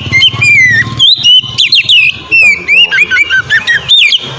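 Oriental magpie-robin singing a loud, fast run of short whistled notes that slide up and down in pitch.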